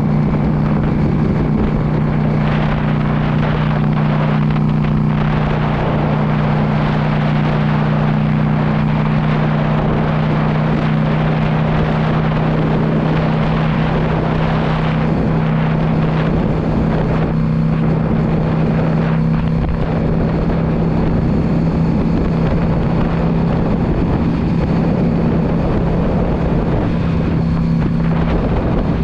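Yamaha V Star 650's air-cooled V-twin engine running steadily at cruising speed, with wind rushing over the microphone.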